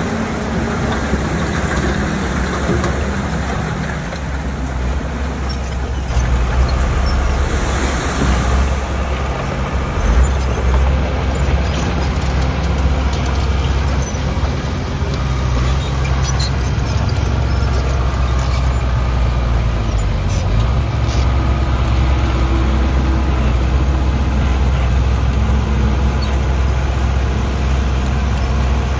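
Heavy diesel engines of earthmoving machinery running steadily, getting louder under load about six seconds in, with a brief hiss around eight seconds in.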